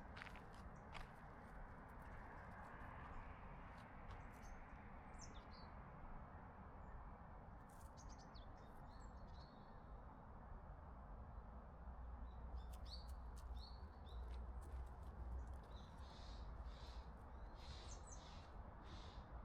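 Faint bird chirps: short, high calls scattered through, more of them in the second half, over a low steady background noise.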